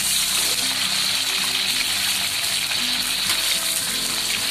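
Tomato wedges frying in hot oil in a wok: a steady, loud sizzling hiss as the juicy pieces spit in the oil.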